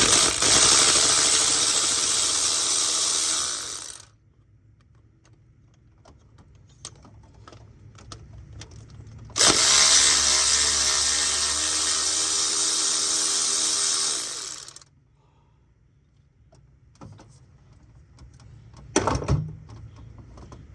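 Cordless power tool, drill or driver type, running in two long steady bursts of about four and five seconds, with a pause between, then a few clicks and knocks of handling near the end.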